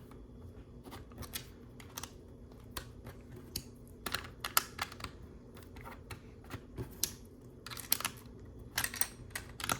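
Plastic LEGO bricks clicking and clattering as pieces are picked through, handled and pressed together: irregular small clicks, bunched about four seconds in and again near the end.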